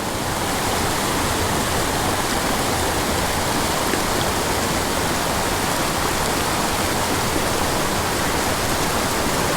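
Steady rush of water from a steep mountain creek cascading over small waterfalls into pools.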